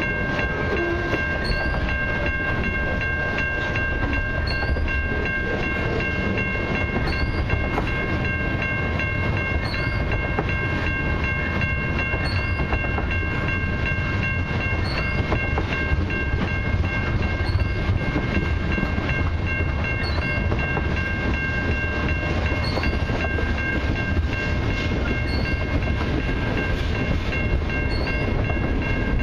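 Freight train cars rolling past at a level crossing: a steady rumble of wheels on the rails with clicks and clacks over the joints. Several steady high ringing tones run throughout.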